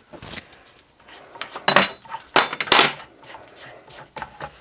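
Small metal parts of a water gauge valve being handled: four or five separate clinks and short scrapes, each with a brief high metallic ring.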